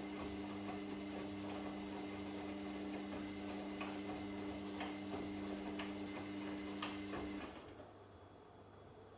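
Washing machine running with a steady motor hum and light ticks about once a second, then the motor cuts off about seven seconds in, leaving only a faint hiss.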